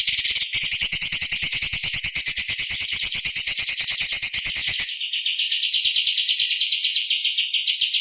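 Orange-bellied leafbird singing a fast, harsh run of rapidly repeated high notes. About five seconds in, the song changes to a tighter, steadier trill.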